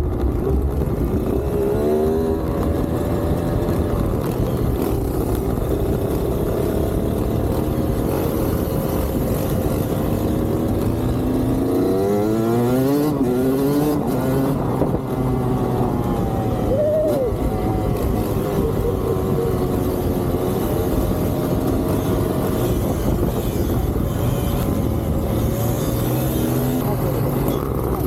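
Motorcycle engine running under way, its pitch rising and falling several times as it revs and changes gear, with a cluster of quick rising revs about halfway through.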